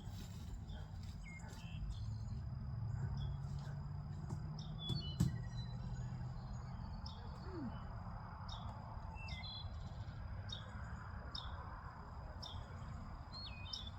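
Small birds chirping repeatedly over a low steady rumble, with one sharp click about five seconds in.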